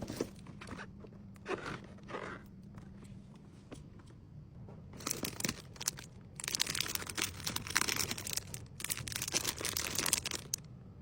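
Plastic packaging crinkling and rustling as it is handled: a few short rustles at first, then a longer, busier stretch of crackling through the second half.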